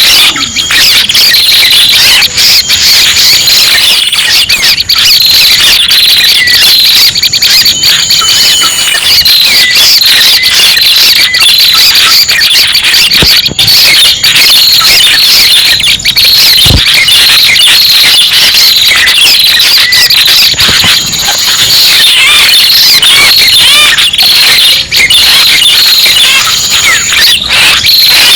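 Bird-trapping lure recording of red-headed prenjak calls: loud, dense, high-pitched chattering that runs without pause.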